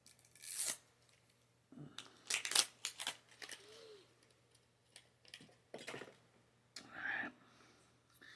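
Wrapping being torn and crinkled off a whiskey bottle to open it: scattered crinkles, short tearing sounds and small clicks.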